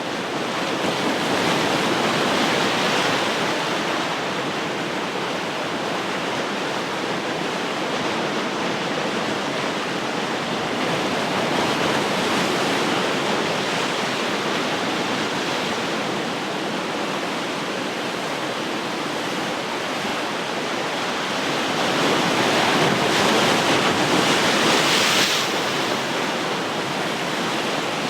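Ocean surf washing on the shore: a continuous rush of breaking water that swells and eases, with the biggest wave breaking near the end.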